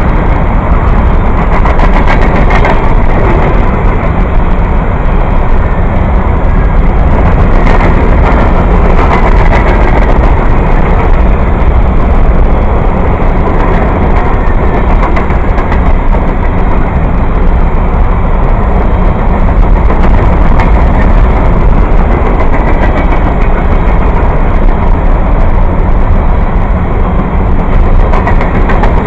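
Passenger train rolling past: a steady, loud rumble of wheels on rail with a few scattered clicks.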